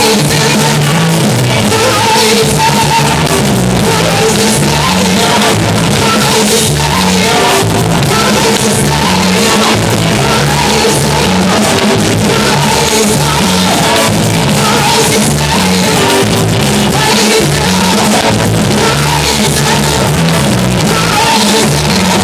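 Loud band music with singing, a bass line stepping up and down under steady drum beats, in a large reverberant hall.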